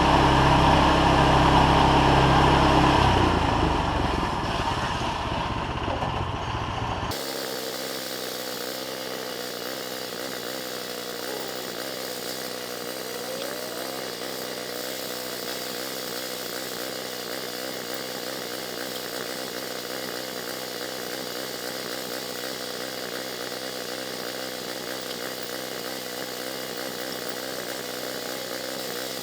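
Bandsaw mill's gasoline engine running steadily. It is louder for the first few seconds, changes abruptly about seven seconds in, and then carries on as an even drone.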